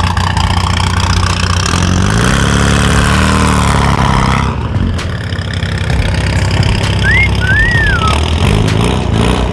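A car engine running loud, revving up and back down about two to four seconds in. A short high whistle-like tone rises and falls near the end.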